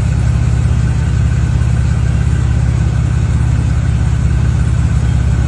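Chevrolet Camaro's engine idling steadily, a low, even note that does not change in pitch.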